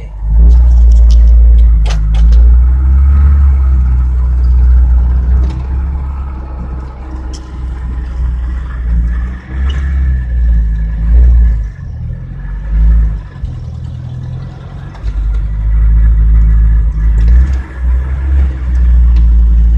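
Old car's petrol engine, converted to run on LPG, running, its sound swelling and dropping back several times.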